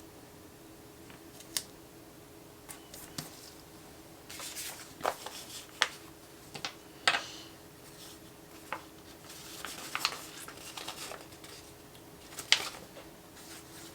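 Stickers being peeled off their sheets and pressed onto a paper planner page: light rustles, soft peeling and a scattering of small sharp clicks and taps, over a faint steady hum.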